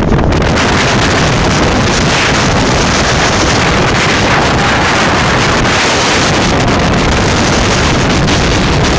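Strong gale wind buffeting the microphone: a loud, steady rush of wind noise that swells a little between about two and five seconds in.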